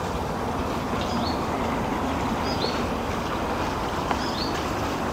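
Steady wash of water from a small garden fountain. Over it a bird repeats a short, high two-note call about every one and a half seconds.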